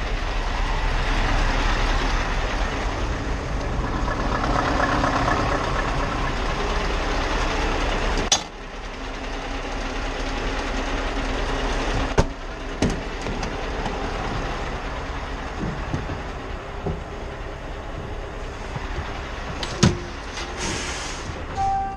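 Scania R520 V8 truck engine running, heard from inside the cab, stopping abruptly with a click about eight seconds in. Scattered clicks and knocks follow.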